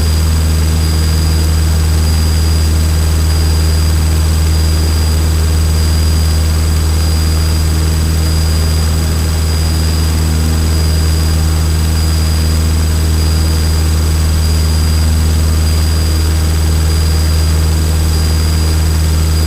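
Single-engine Cessna trainer's piston engine and propeller droning steadily at climb power, heard from inside the cockpit. The low hum stays even, with no change in pitch or level.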